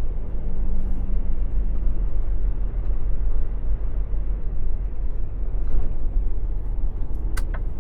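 Semi truck's diesel engine running with a steady low rumble, heard from inside the cab, with a faint hum in the first couple of seconds and a few light clicks near the end.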